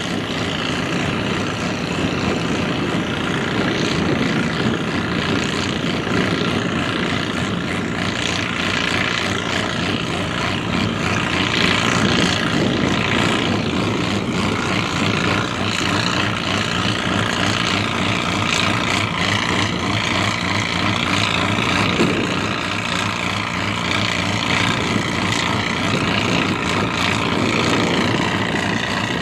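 Classic farm tractor's engine running hard under load during a tractor pull, a loud steady engine note that holds for the whole stretch, easing slightly about two thirds of the way through.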